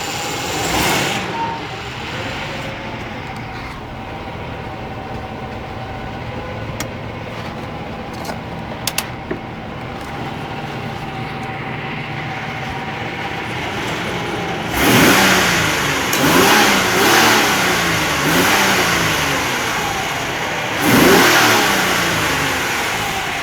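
Ford Explorer 4.0 L V6 EFI engine idling steadily, with a few sharp clicks midway. About fifteen seconds in it is revved several times in quick succession, then once more near the end, each blip rising and falling in pitch.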